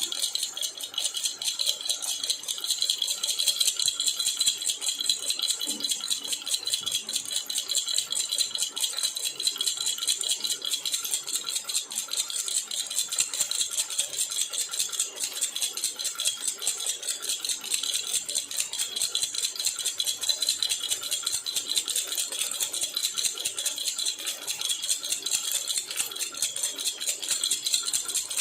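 Jhunjhuna baby rattle shaken rapidly and without a break, a steady high-pitched metallic rattle.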